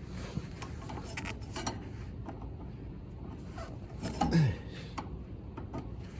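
Copper pipe ends being pushed and worked into a coupling by hand: scattered scraping and small metal clicks. About four seconds in, a brief, louder low sound that drops in pitch.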